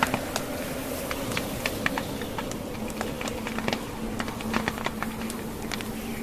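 Wood fire crackling in a fireplace, with frequent irregular sharp pops and snaps from the burning logs, over a steady rush of blizzard wind carrying a low steady tone.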